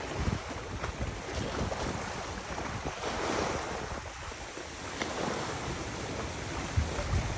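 Wind buffeting the microphone over the wash of river water, swelling in a gust about three seconds in.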